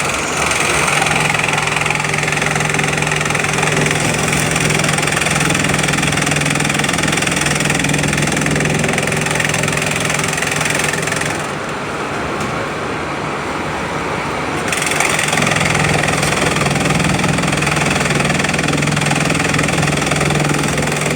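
Bamboo chipping machine running steadily with a constant hum, chipping bamboo into strips. About halfway through the sound eases and thins for a few seconds, then comes back to full.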